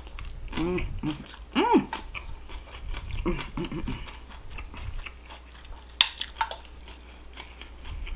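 Close-miked chewing of food, with short hummed "mm" sounds in the first four seconds and two sharp crunching bites about six seconds in.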